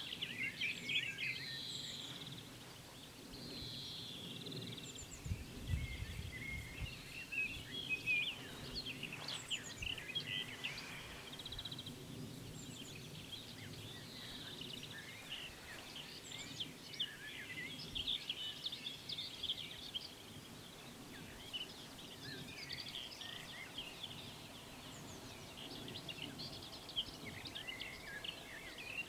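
Birds chirping and singing, many short irregular calls, over a faint low background rumble.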